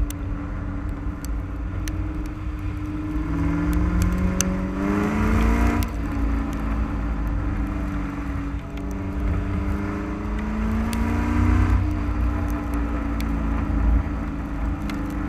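Car engine and exhaust heard from beneath the car during hard driving: the note climbs under acceleration and drops sharply when the throttle is lifted, twice, over heavy low wind and road rumble.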